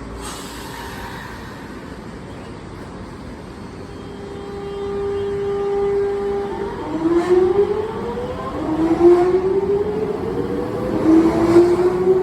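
Nankai 2000 series electric train pulling away, its GTO-VVVF inverter traction motors whining: a steady tone about four seconds in, then from about seven seconds a run of rising tones that step up in pitch one after another as the train accelerates.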